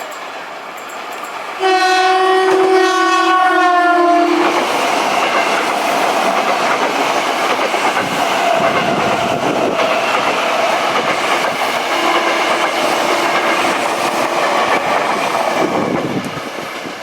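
A train sounds its horn in one blast of about three seconds, its pitch dropping slightly as it passes. The train then runs past with a steady rush of wheels on the rails.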